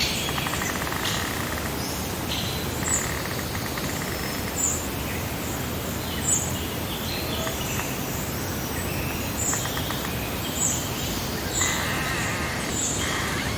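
Several wild birds calling over a steady background hiss. One gives a short high chirp repeated every second or two, while others add scattered buzzy calls.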